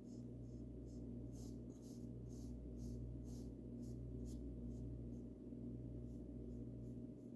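Paint brush brushing paint onto a bird house: soft, hissy swishes, about two strokes a second, over a steady low hum.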